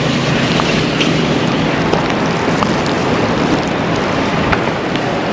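Steady rushing blizzard wind, with a few faint ticks scattered through it.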